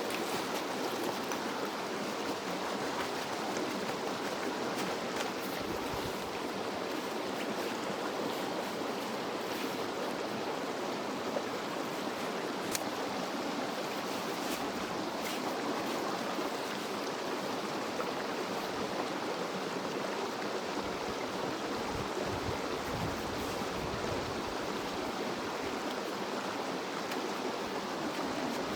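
Headwater mountain stream running steadily, a constant rush of flowing water.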